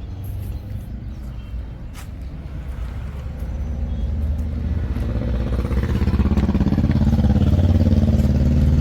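An engine running with a low, fast pulsing note that grows steadily louder over several seconds.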